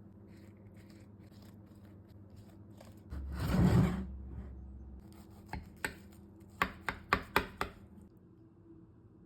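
Kitchen knife chopping on a cutting board. It starts with faint light taps, has a louder noisy rush about three and a half seconds in, and ends with a quick run of about seven sharp chops about two seconds later.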